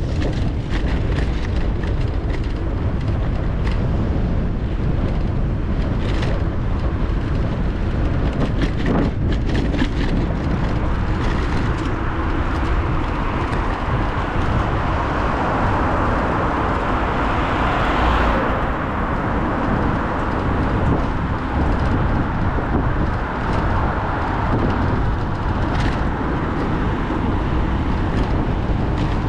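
Wind rushing over an action camera's microphone while cycling, as a steady low rumble, with a vehicle going past that swells up and fades about eighteen seconds in. A few sharp clicks come through here and there.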